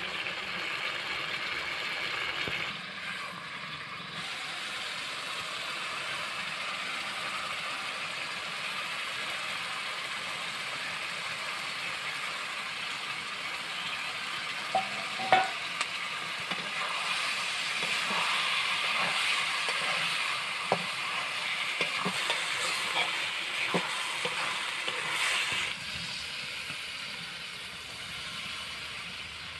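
Masala gravy sizzling and bubbling in a metal kadhai. About halfway through there is a sharp metal clink. The frying then grows louder, with a spatula scraping and knocking against the pan as goat intestine pieces are stirred in.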